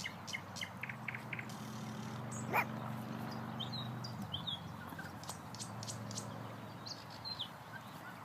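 Nightingales singing: rapid clicks and short whistled notes, several birds at once. A low steady hum runs underneath and stops about four seconds in, and a single rising-and-falling whine sounds about two and a half seconds in.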